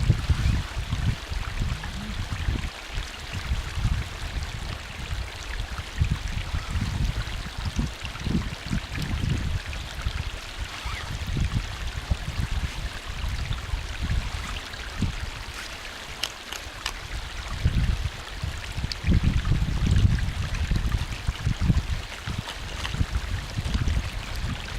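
Small stream of acidic mine water running with a steady rushing sound, while wind buffets the microphone in irregular low gusts, strongest near the start, about a third of the way in, and around three quarters through.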